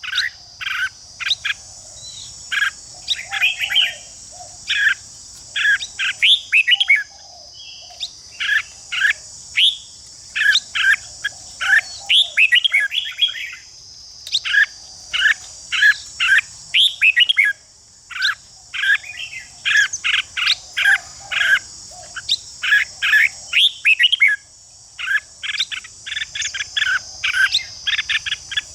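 Red-whiskered bulbuls giving rapid clusters of short, harsh chattering 'ché' notes, the agitated calling used to provoke other bulbuls into song. A steady high insect drone runs beneath.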